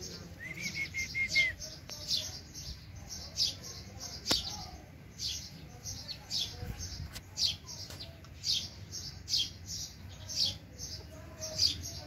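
Small birds chirping, short high calls repeating about once or twice a second, with a brief warbling note about half a second in and a single sharp click about four seconds in.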